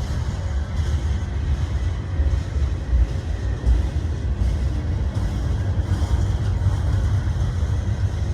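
Train rumbling along the rails, a heavy steady low rumble with no high-pitched brake squeal.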